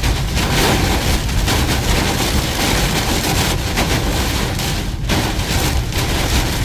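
Inside a moving car in a heavy storm: steady noise of rain on the car and road noise, with a strong low rumble.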